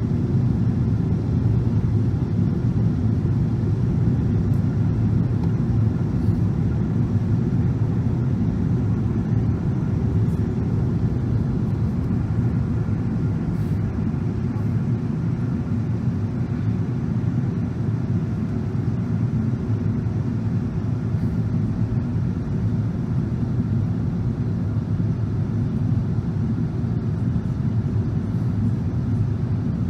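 Steady low rumble of a Boeing 777-300's engines and airflow heard inside the passenger cabin on final approach.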